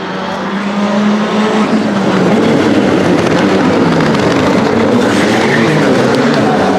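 Rally car engine revving hard on a circuit stage, its pitch rising and falling with throttle and gear changes, growing louder about a second in.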